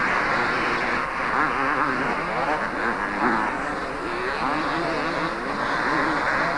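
Several two-stroke motocross bikes racing, their engines revving up and down over one another as they work around the track.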